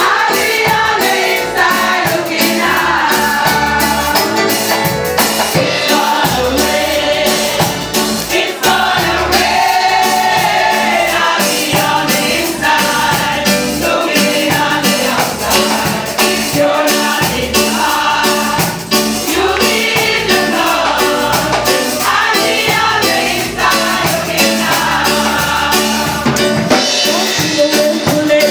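Gospel choir singing together in full voice with band accompaniment, a steady beat of percussion strokes running under the voices.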